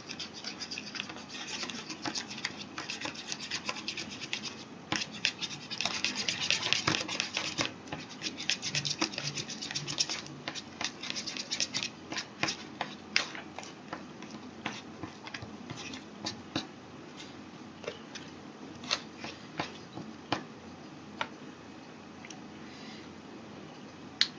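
Small plastic spoon stirring and scraping pink candy powder mixed with water into a paste in a plastic tray well. Fast, continuous scratchy rubbing for about the first twelve seconds, then slower, scattered scrapes and taps.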